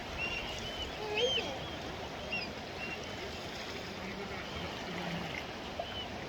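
Sea water moving and washing along the shore, a steady rushing, with many short high chirping calls over it.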